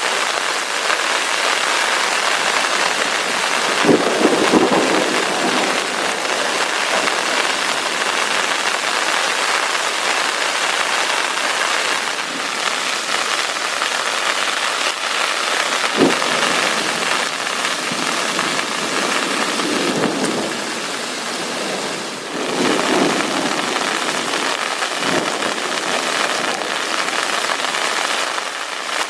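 Heavy rain falling hard and steadily, with thunder rumbling in low swells several times and a sharper crack about midway.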